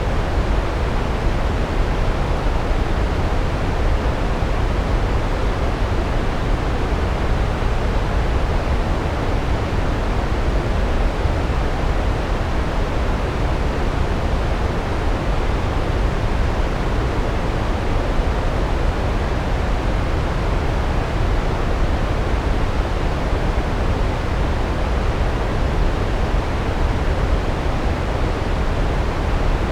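Large waterfall: a steady, unbroken rush of falling water, heaviest in the deep low end.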